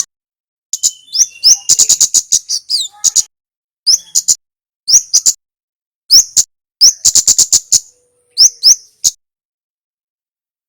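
Male kemade, a small flowerpecker, calling in bursts of rapid, sharp, high-pitched chips, some notes rising, with short gaps between bursts; it falls silent near the end.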